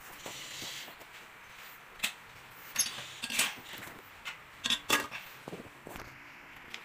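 A series of scattered clinks and knocks, as of hard objects being handled and set down, with a short soft hiss at the start.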